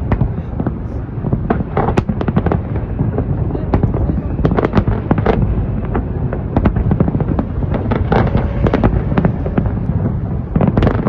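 Fireworks display: a dense, continuous barrage of bangs and crackles over a steady low rumble, with no pause.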